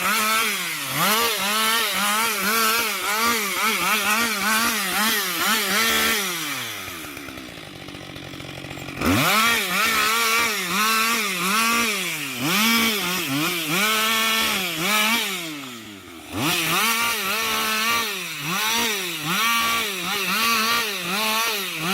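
Husqvarna 560 XP two-stroke chainsaw cutting through tree roots, its pitch wavering as the chain bogs under load. Twice, about six seconds in and again near sixteen seconds, the engine drops off to idle and then revs straight back up to full throttle.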